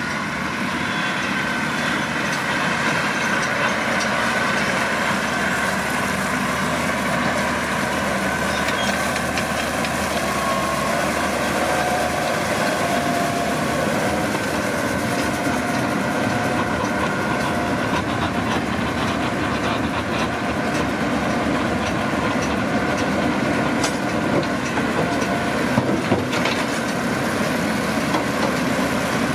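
Massey Ferguson 7620 tractor engine running steadily while working a McHale V660 round baler, engine and baler machinery together. A few sharp clicks or knocks come near the end.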